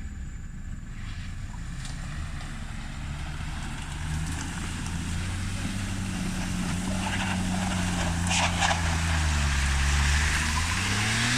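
Mini truck engine running at low revs, growing steadily louder and shifting a little in pitch, with a few sharp clacks about eight seconds in.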